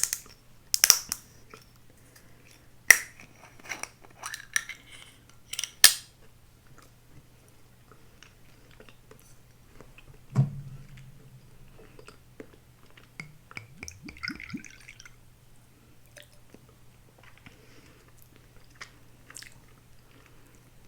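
Close-miked eating sounds: a run of sharp clicks and taps of dishes or utensils in the first six seconds, a single thump about ten seconds in, and soft chewing, over a faint steady low hum.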